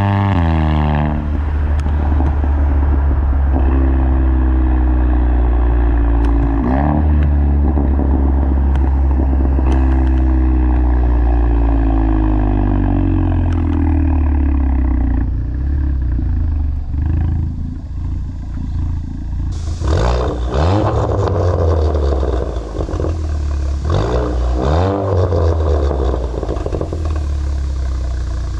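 Volkswagen Golf GTI engine and exhaust under way, its note dropping at the start, then slowly rising and falling, with a quick dip and climb about seven seconds in. In the last third a rushing noise joins the exhaust, and a few short revs climb near the end.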